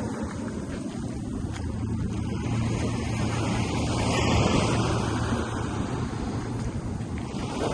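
Ocean surf washing in with wind on the microphone, over a steady low engine drone; the surf swells about four seconds in.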